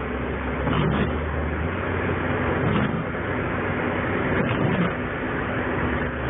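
Steady car cabin noise while driving on snowy roads: a low engine hum under even tyre and road noise.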